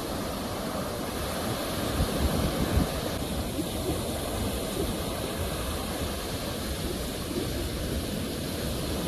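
Sea surf: waves washing onto the shore in a continuous rush, with a slightly louder surge about two to three seconds in.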